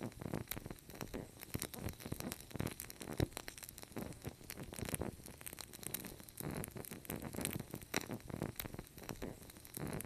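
Wood fire crackling: irregular pops and snaps over a low rumble of burning, with a sharper pop a little past three seconds in.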